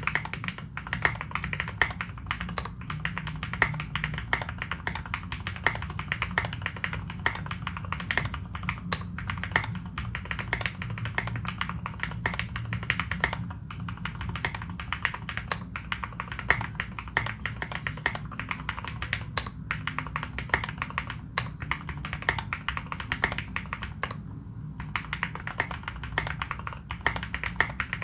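Continuous fast typing on a custom KBD75v2 mechanical keyboard fitted with modded Cherry Retooled Black linear switches and Domikey Dolch keycaps. The keystrokes clack densely, with a brief lull near the end.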